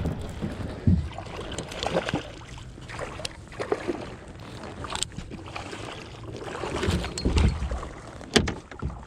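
Kayak on the water: scattered knocks and clicks against the hull and gear, with water sloshing and gusts of wind on the microphone.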